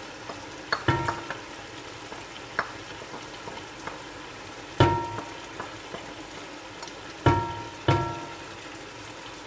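Chicken mince frying in a pot with yogurt just added, a steady sizzle throughout. A spoon knocks against the pot about five times, each a sharp clink that rings briefly.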